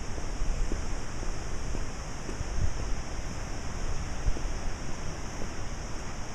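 Gusting wind blowing hard, buffeting the microphone with uneven low rushing noise.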